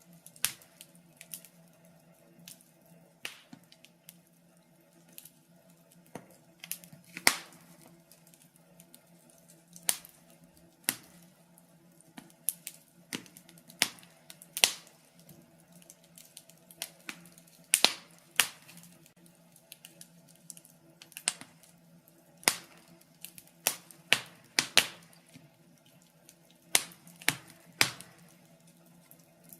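Wood fire crackling in a fireplace: irregular sharp pops and snaps, some much louder than others.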